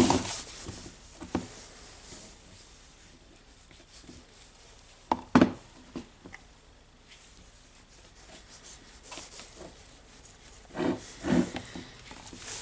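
Grease being worked by hand into a Makita DHR202 rotary hammer's gear housing: quiet rubbing and handling noises, with two sharp knocks about five seconds in and a few more taps near the end.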